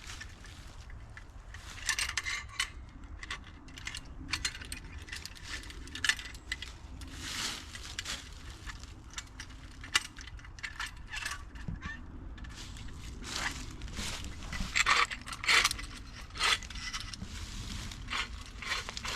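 Irregular clinks, rattles and scrapes of metal hardware being handled, in clusters over a steady low rumble.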